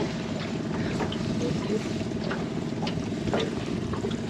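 Small boat's outboard motor running steadily, with a few short knocks and splashes on top.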